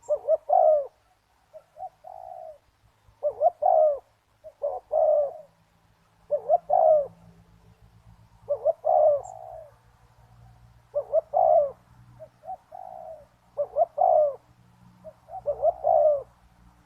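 Spotted dove cooing: short, repeated, rolling coo phrases come every couple of seconds, some loud and close and a few fainter.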